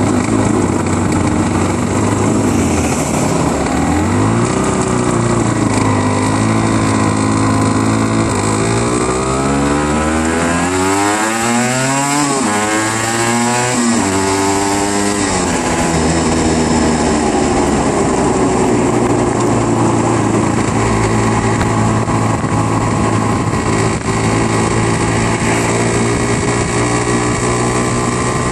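Aprilia RS125's two-stroke single-cylinder engine pulling away and working up through the gears: the revs climb and drop in a quick run of sweeps, then settle into a steady note at cruising speed.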